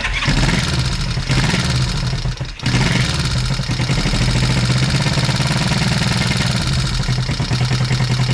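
1973 Honda CB350 air-cooled parallel-twin engine restarting on the electric start with a little throttle: it catches at once, dips twice in the first three seconds, then settles into a steady idle.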